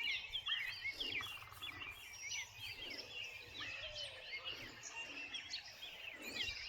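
Several songbirds chirping and singing, many quick overlapping chirps and warbles, over faint outdoor background noise.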